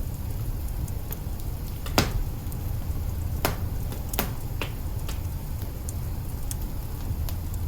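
Wood fire in an open hearth crackling, with a large log burning: sharp pops scattered irregularly, about one or two a second, the loudest about two seconds in, over a low steady rumble.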